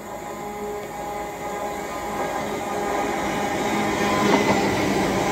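Hull Trains Class 802 bi-mode train approaching and passing close by on its diesel engines, with a steady engine hum and wheel and rail noise growing steadily louder as it draws level.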